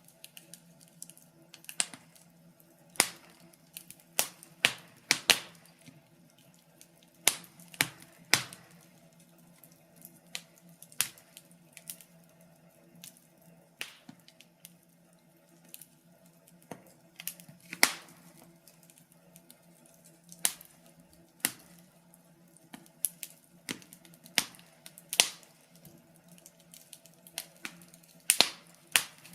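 Wood fire crackling in a fireplace: irregular sharp pops and snaps, some in quick clusters, over a faint steady hum.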